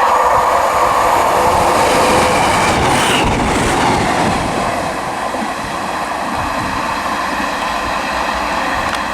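A diesel multiple unit passes through a station at high speed, with a steady loud rush of wheels on the rails. The rush eases off a little in the second half as the train goes by.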